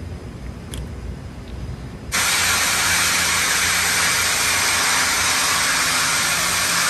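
A low rumble, then a loud steady hiss that starts abruptly about two seconds in and holds even.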